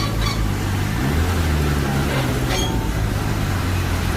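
Heavy diesel engine running under load, its pitch rising and falling as the machine works, with a couple of brief sharper sounds over it.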